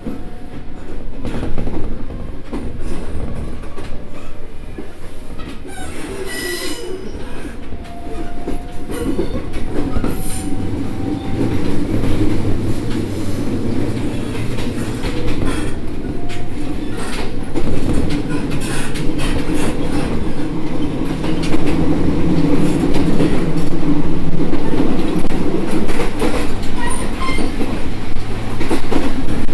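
Train running on rails: a steady rumble of wheels with scattered clicks and faint squeals, growing louder through the second half.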